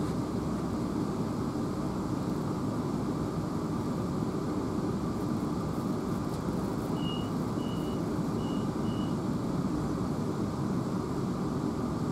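Steady running noise inside the passenger saloon of a South Western Railway Class 444 electric multiple unit in motion, a low rumble. About seven seconds in, four short high beeps sound in quick succession.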